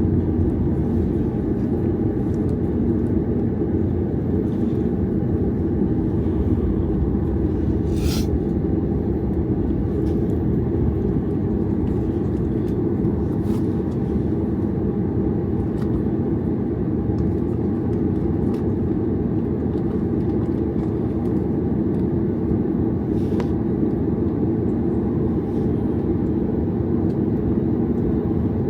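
Steady low rumble and hum of cabin noise inside a Boeing 737 MAX 8 airliner, even throughout with no spool-up, broken by a brief sharp click about eight seconds in and a couple of fainter ones later.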